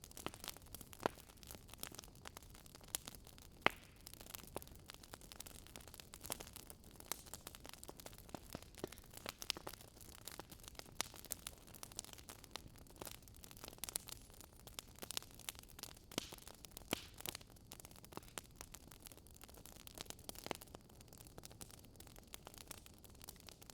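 Wood fire crackling faintly: irregular sharp pops and snaps over a soft steady hiss.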